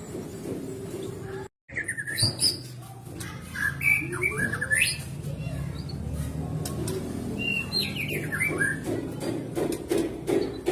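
White-rumped shama (murai batu) singing a run of varied whistles, chirps and sharp clicks, which starts after a brief dropout about a second and a half in, over a low background murmur.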